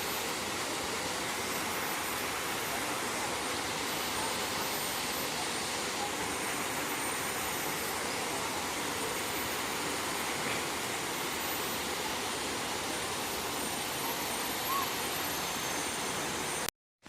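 Steady rushing of a waterfall, an even roar of falling water that cuts out abruptly near the end.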